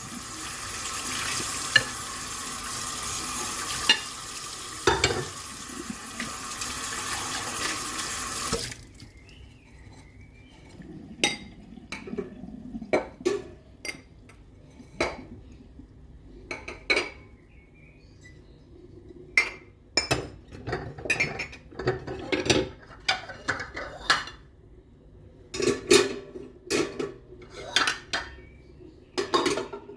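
Tap water running into a sink while dishes clink, until the tap is shut off about nine seconds in. Then dishes and cutlery clink and knock against each other at an irregular pace during hand washing.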